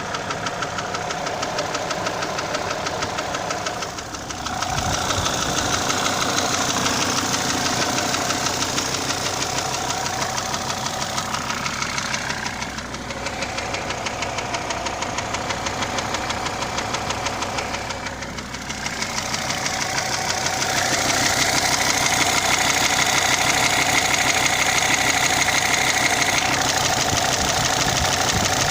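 SsangYong Rexton 2.7 Xdi five-cylinder turbodiesel running with a steady rhythmic knock, the engine speed dropping and rising again a few times and held higher near the end. The knock is an unexplained engine fault that the owner is trying to trace.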